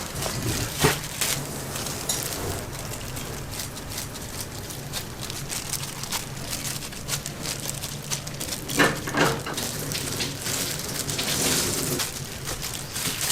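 Hot oil sizzling in a deep fryer as dough fries: a steady crackling hiss with scattered clicks and knocks, over a steady low hum.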